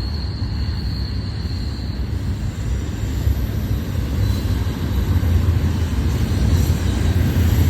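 Freight train passing close by: a steady low rumble that grows a little louder toward the end.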